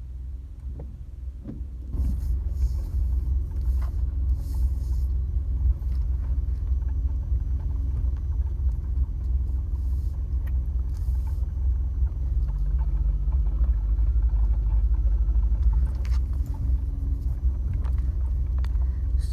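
Large truck's engine and road noise heard from inside the cab while driving slowly: a steady low rumble, a little louder from about two seconds in.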